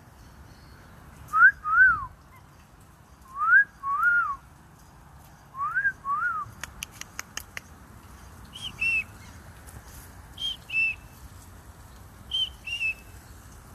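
Repeated clear two-note whistles, about every two seconds. Three lower pairs that rise and fall are followed by higher pairs that step down. A quick run of clicks comes about halfway through.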